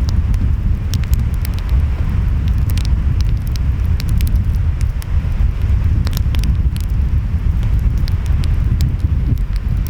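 Wood fire crackling, with frequent sharp pops and snaps scattered irregularly, over a loud steady low rumble of ocean waves and wind.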